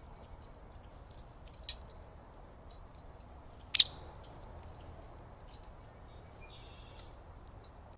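Small birds chirping in short, high notes over a steady hiss, with one sharp, loud chirp near the middle and a smaller one a little before it.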